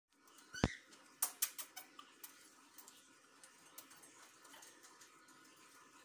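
A thump about half a second in, then a quick run of short, sharp chirps from small pet birds, thinning to faint scattered chirps.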